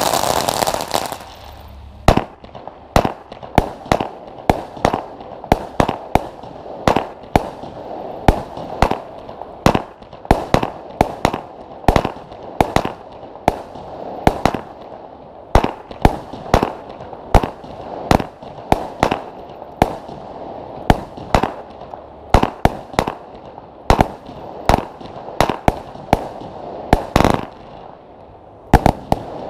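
Weco Cyclone firework battery: the ground fountain's steady rushing spray of sparks cuts off about a second in. Then the battery fires shot after shot, about one or two sharp reports a second, with a last louder pair near the end.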